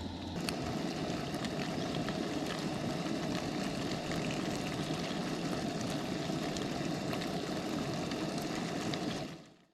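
Camp stove burner running with a steady rushing sound, with faint crackling sizzle from a pan of garlic bread toasting. It fades out near the end.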